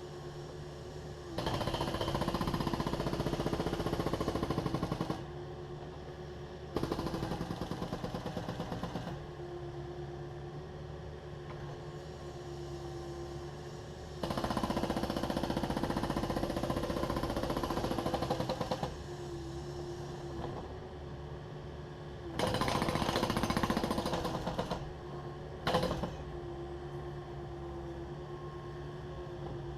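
Hydraulic breaker on a Takeuchi TB260 excavator hammering concrete in four bursts of rapid, even blows lasting a few seconds each, with one very short burst near the end. Between bursts the excavator's diesel engine runs steadily.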